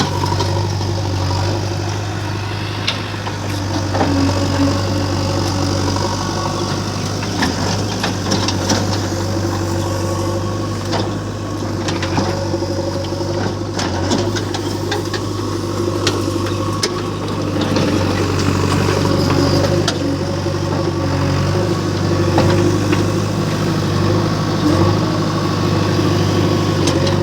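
JCB 3DX backhoe loader's diesel engine running steadily while digging, with scattered knocks throughout.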